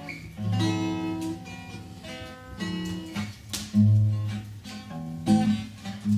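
Acoustic guitar playing a song's introduction: plucked chords and low bass notes, each left to ring before the next.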